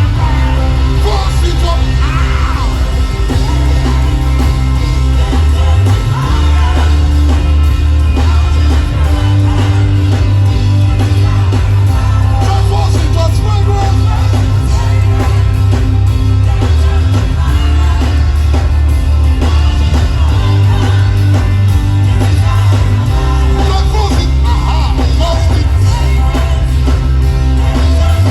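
Live gospel worship music: a band with a loud, sustained bass line that shifts every few seconds, and voices singing over it.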